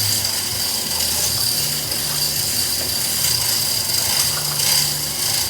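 Hand-operated rigging hoist ratcheting and its chain rattling as the tank's weight is taken up, over a steady high hiss.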